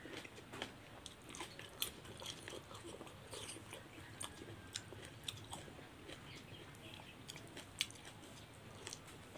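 Quiet chewing and wet mouth sounds of a person eating rice and meat by hand: irregular soft smacks and clicks.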